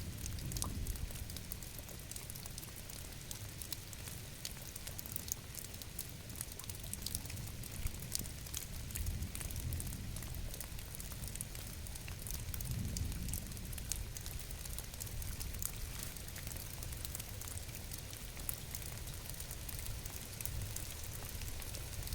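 Steady rain, with many sharp drop ticks over a low rumble that swells twice.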